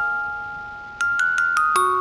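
Background music: a gentle lullaby-style melody of bell-like struck notes in a glockenspiel tone, each note ringing out and fading. One note dies away, then a quick run of five notes begins about a second in.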